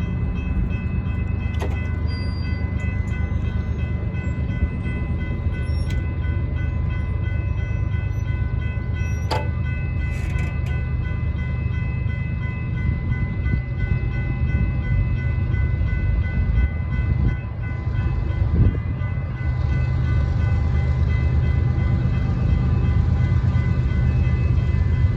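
GE diesel-electric freight locomotives running past with a steady low rumble, and a steady high whine over it throughout.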